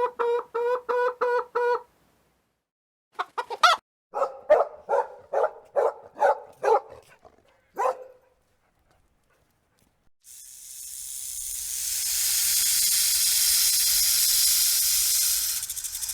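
Chicken clucking in two quick runs of short calls, about four a second. About ten seconds in comes a steady hiss that builds up and stops abruptly.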